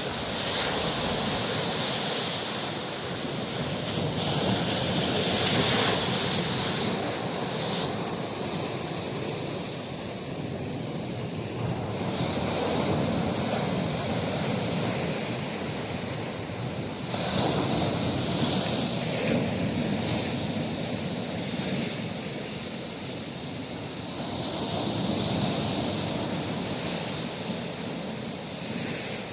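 Red Sea waves washing on the shore, swelling and easing every several seconds, with wind on the microphone.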